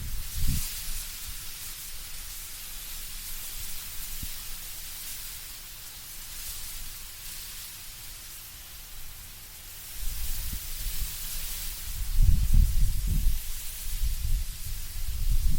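Wind blowing through trees with a steady rustle of leaves that swells and fades in gusts. About two-thirds through, a deep gusty rumble of wind comes in and grows stronger.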